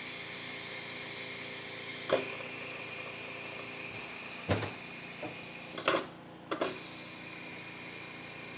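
Steady hiss of steam venting from an electric pressure cooker's quick-release valve under a towel, as the pressure comes down. Four sharp clicks or knocks cut through it about two, four and a half, six and six and a half seconds in.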